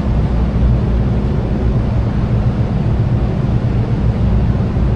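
Steady low drone of a tour boat's engine under way, with wind buffeting the microphone.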